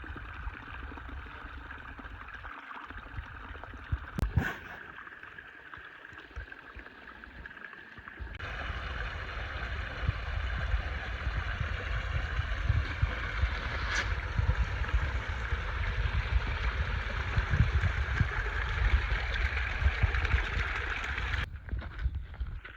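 Mountain stream rushing and gurgling as a steady wash of water. It jumps louder about eight seconds in, with a low rumble under it, and cuts off abruptly shortly before the end.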